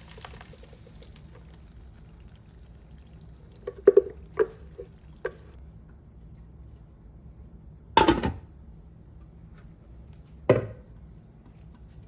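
Cooking sounds in a kitchen: a few light clinks or taps about four to five seconds in, then a louder splash or knock around eight seconds and another near ten and a half seconds, such as utensils against a pan and liquid being poured in.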